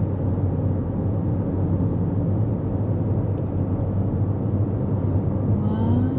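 Steady road and tyre noise with a low rumble inside a 2024 Toyota Corolla Cross cruising at highway speed.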